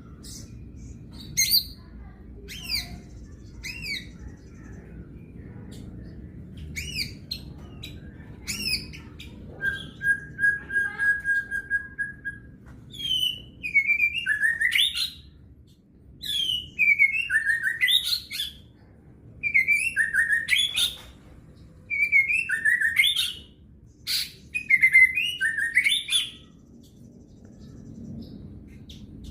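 A songbird singing. Short scattered chirps come first, then one long steady whistle about ten seconds in. After that come repeated loud phrases of swooping notes, each about a second and a half long, roughly every three seconds.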